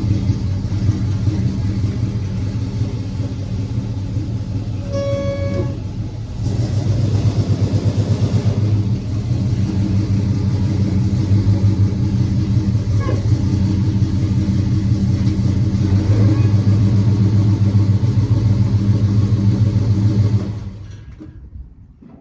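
A car engine running steadily with a low rumble as the car is pulled out of a garage, louder from about six seconds in, with music playing faintly along with it. The engine sound drops away near the end.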